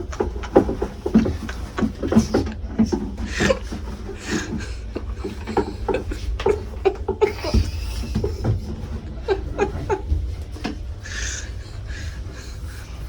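People laughing and giggling in short, stifled bursts over a steady low hum.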